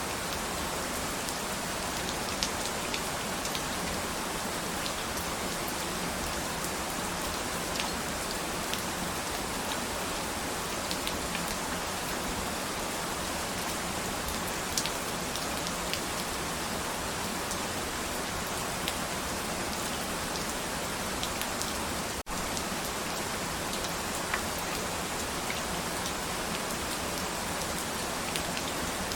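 Steady rain falling, with scattered individual drops ticking on a surface. A split-second gap in the sound about three quarters of the way through.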